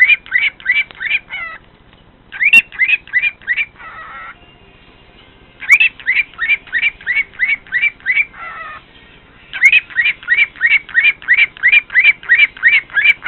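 Pet cockatiel whistling bouts of short, rising notes, about four a second, repeated over and over, with softer, lower warbles in the pauses between bouts.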